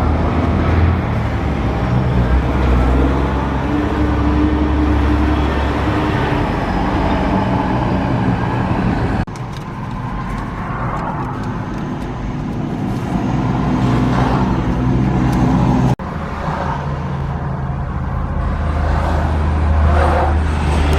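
Truck engines running, heard in three stretches joined by abrupt cuts about nine and sixteen seconds in.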